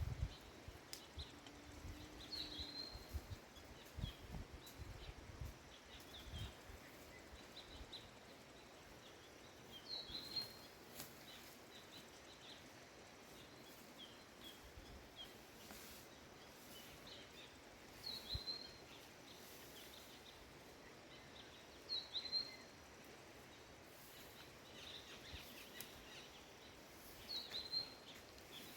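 A bird repeating a short, high chirp several times, a few seconds apart, over quiet outdoor background noise. Soft low thumps come in the first few seconds.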